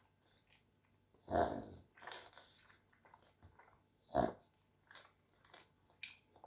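A pug sneezing twice, about three seconds apart, with short snorts and sniffs between and after the sneezes.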